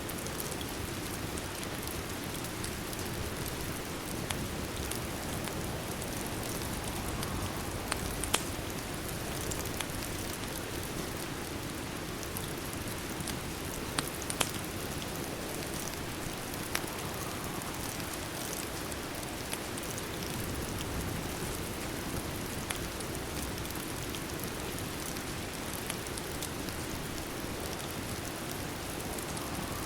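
Steady rain hiss mixed with a fireplace's occasional sharp crackling pops, the loudest about eight and fourteen seconds in.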